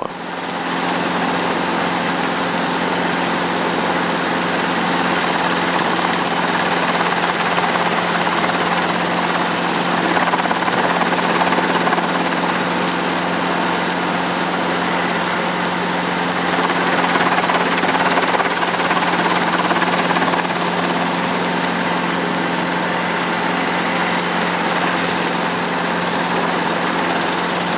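Helicopter engine and main rotor running steadily in flight, heard from inside the cabin. It is a constant low hum with a broad rushing noise over it.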